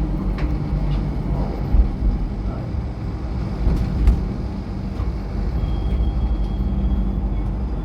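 MTR Light Rail train running along the track: a steady low rumble with a few sharp knocks. A faint high steady tone joins about two-thirds of the way through.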